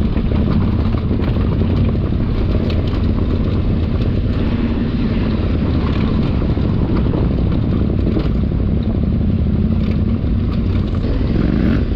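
Parallel-twin adventure motorcycle engine running steadily.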